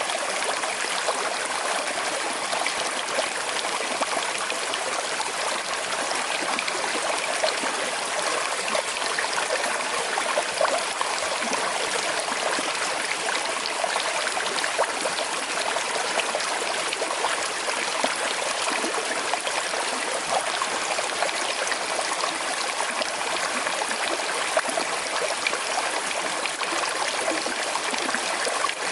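Small river flowing over stones with a slight current, a steady rushing and trickling babble with little irregular splashes.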